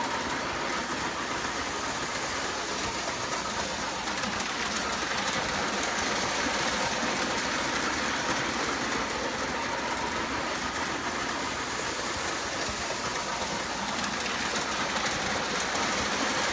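Lionel O27 model train with a NYC Flyer 4-4-2 locomotive running steadily around tubular three-rail track: a continuous whir of the electric motor and wheels rolling over the rails, with a faint steady whine.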